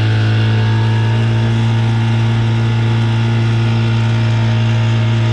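Boat's outboard motor running at a steady speed under way, a loud, even hum with no change in pitch.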